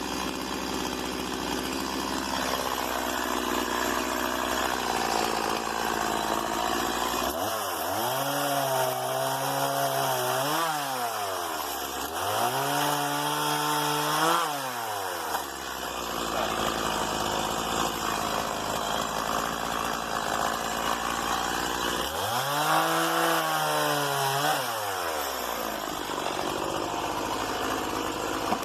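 Small two-stroke STIHL MS 170 chainsaw idling, then revved up to high speed three times for about three seconds each, dropping back to idle between. The last rev comes near the end.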